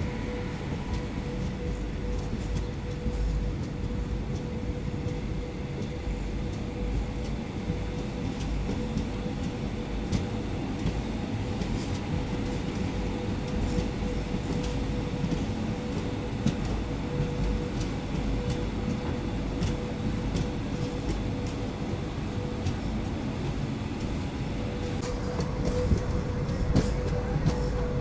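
Passenger train coaches running along the track: a steady rumble of wheels on rail with a faint steady whine over it, and scattered clicks that come more often near the end.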